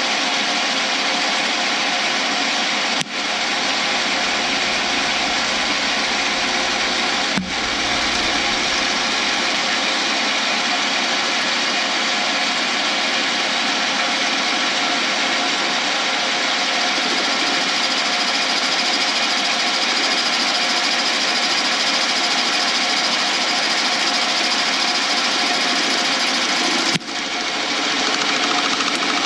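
Lathe spinning a resin blank still cased in PVC pipe while a tool cuts it: a loud, steady machining noise. The cracked PVC shell turning loose on the blank is what makes much of the noise.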